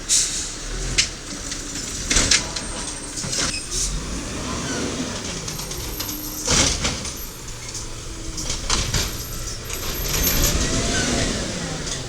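Diesel engine of a 1993 WhiteGMC automated side-loader garbage truck running, its pitch rising and falling twice. Several sharp clanks sound over it, the loudest about two seconds in and near the middle.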